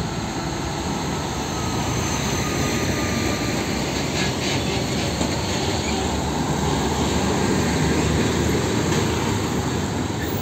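Busy street traffic: heavy diesel tanker trucks and motorcycles passing close by, a steady rush of engine and tyre noise that grows a little louder through the middle.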